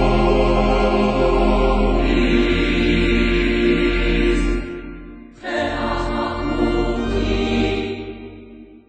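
Slow sacred choral music with long held chords. One phrase dies away about five seconds in, a second phrase swells in at once, and it fades out near the end.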